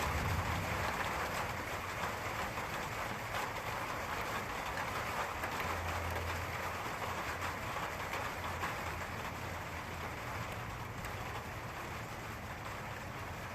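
Steady rain falling, with a low rumble underneath that swells near the start and again about halfway through.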